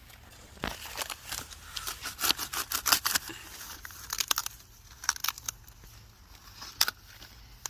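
Crisp, irregular tearing and crackling of cabbage leaves being handled and snapped off, a quick run of sharp snaps, busiest in the first half.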